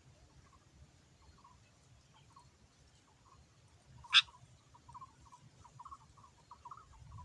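Sooty-headed bulbul (kutilang) calling: faint short chirps that quicken into a rapid chatter of several notes a second in the second half, with one sharp, loud note about four seconds in.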